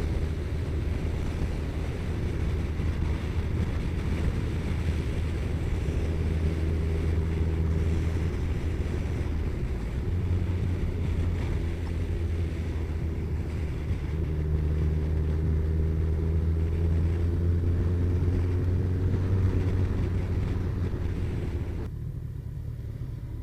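Kawasaki ZZR1400 inline-four motorcycle engine running under way, with wind rushing past; the engine note climbs slowly through the middle and eases off near the end.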